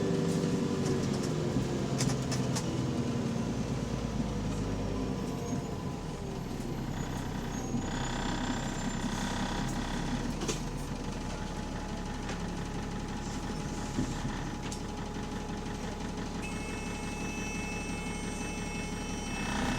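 Double-decker bus engine running while the bus is under way, heard from inside, with an exhaust leak on this bus. The engine note falls over the first couple of seconds, then settles into a steady low rumble.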